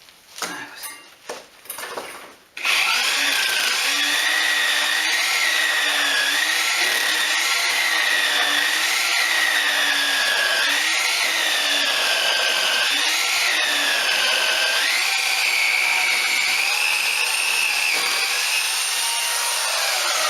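Handheld electric power tool cutting into a wall. A few short bursts come first, then from about two and a half seconds in it runs steadily, its motor pitch wavering up and down under load.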